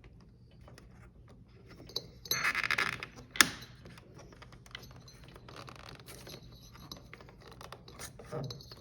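Wiring being pressed into the plastic clips of a washing machine: a short scraping rustle about two and a half seconds in, then one sharp click, with faint taps and clicks of handled parts elsewhere.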